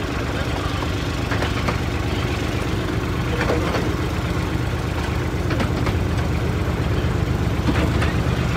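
A 15-inch-gauge light railway train running along the track: a steady low rumble of coach wheels on the rails, with a few faint clicks at irregular intervals.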